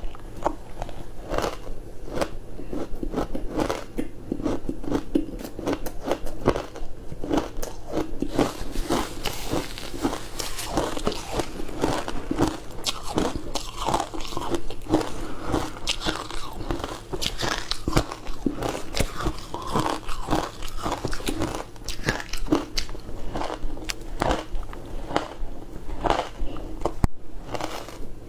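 Close-miked biting and chewing of frozen food: a continuous, irregular run of sharp crunches and crackles.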